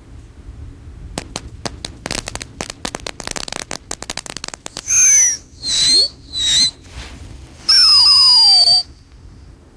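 Firework novelty race car going off: rapid crackling for about four seconds, then three short whistles and a final longer whistle falling in pitch, the whistles being the loudest part.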